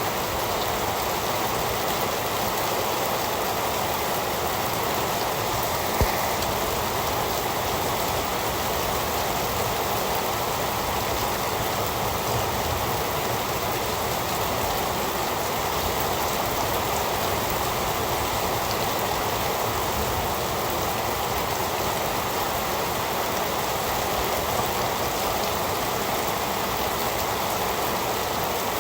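Heavy rain falling in a steady, even hiss, with one sharp click about six seconds in.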